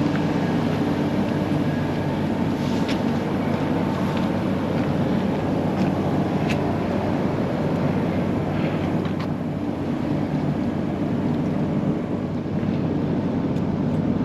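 Steady low machinery drone aboard a lake freighter, under a constant rush of wind on the microphone, with a few sharp clicks or knocks.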